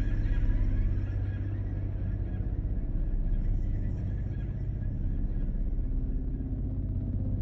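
Dark ambient drone: a steady low rumble with sustained deep tones and a faint hiss above.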